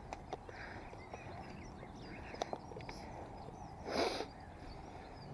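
Faint birdsong in the background, with a few light clicks like footsteps and a short, loud rush of noise about four seconds in.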